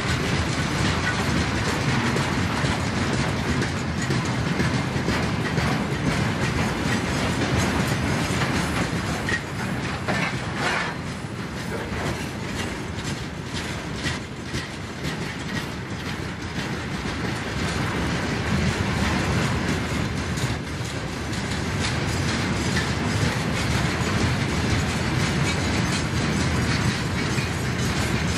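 Freight train's tank cars rolling past close by: a steady rumble with the wheels clacking over the rail joints.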